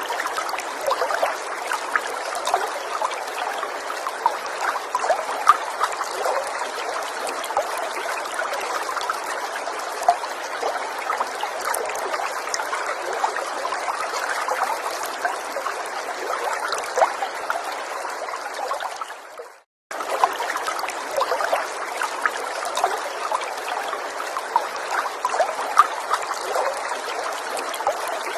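A small forest stream trickling and babbling steadily over stones. The water sound fades and cuts out for a moment about twenty seconds in, then comes straight back.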